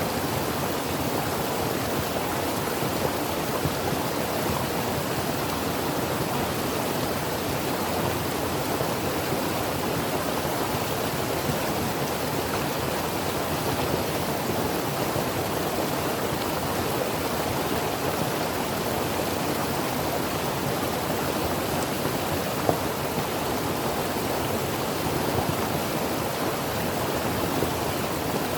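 Creek water running and burbling steadily, an even rush with a few small splashes.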